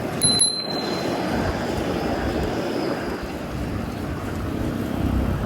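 Steady city street traffic noise heard from a bicycle, with a brief high-pitched tone about a quarter second in.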